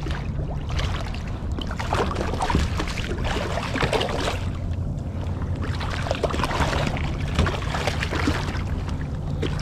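Water splashing and sloshing at a kayak's side, with scattered knocks and rustles, as a hooked striped bass is brought alongside and landed.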